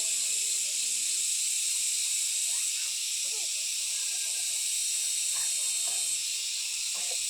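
Steady high hiss of forest background sound, with faint, low voices now and then.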